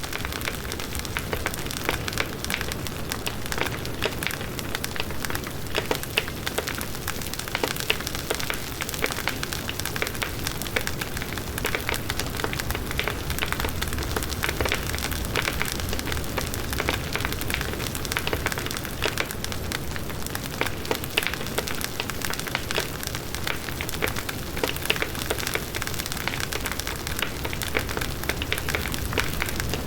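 Large outdoor bonfire burning: wood crackling with many small pops over the steady low rush of the flames.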